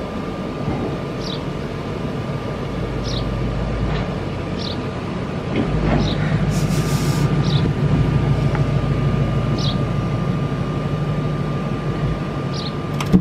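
RV furnace blower motor running with a steady hum, switched on suddenly at the start; despite the cleaned sail switch, the furnace still does not light.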